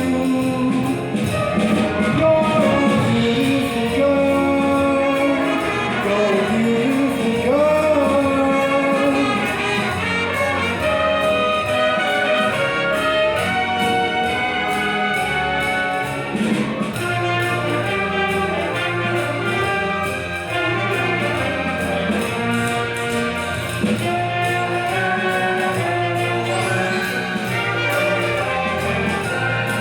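Orchestral show-tune accompaniment led by brass, trumpets and trombones, over a steady bass beat.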